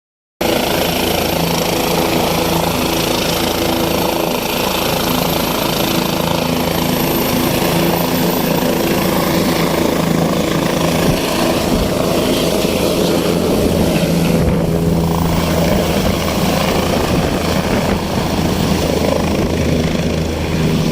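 Helicopter running steadily: a loud, constant drone of rotor and engine with a low humming note, and a thin high whine above it.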